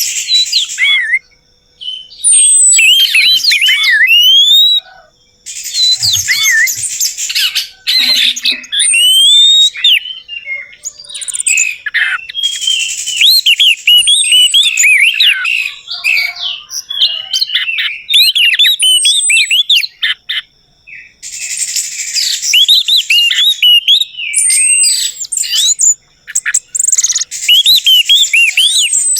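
Orange-headed thrush song, a rapid varied run of high chirps, whistled glides and trills with brief pauses, played as a lure to get a caged bird to sing; a band of hiss comes and goes between segments of the recording.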